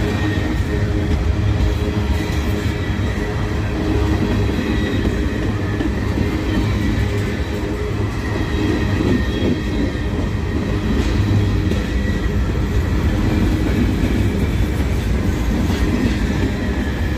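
Freight train cars, empty covered grain hoppers, rolling past close by: a continuous heavy rumble of steel wheels on rail, with a faint high steady ring over it.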